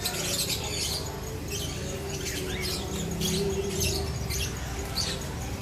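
Many small caged birds cheeping together: a dense run of short, high-pitched, overlapping chirps.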